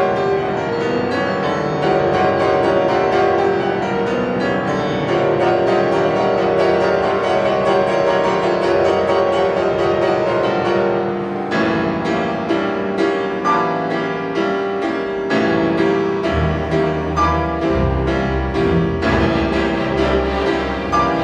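Piano with a chamber string orchestra playing a concerto live. About halfway through the texture changes, and deep low notes come in near the end.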